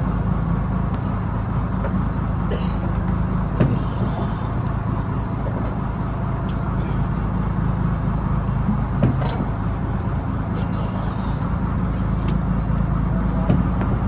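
Fishing trawler's diesel engine running steadily, with a few short knocks over it.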